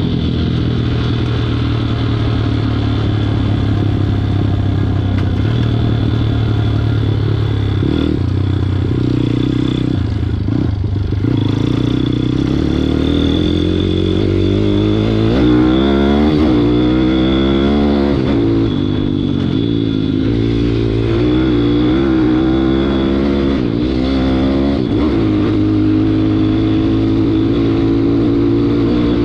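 WPB 160cc pit bike engine being ridden, revving up and down. Its pitch climbs and drops several times in the middle as the throttle is worked.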